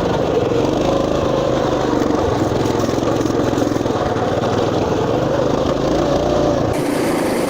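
Motoland RT200 mini motorcycle's engine running while it is ridden, its pitch wavering up and down with the throttle.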